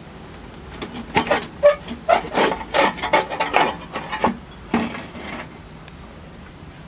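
A run of irregular scraping and rubbing strokes lasting about four seconds, as the side cover is worked off a 7 hp Tecumseh engine packed with a mouse nest.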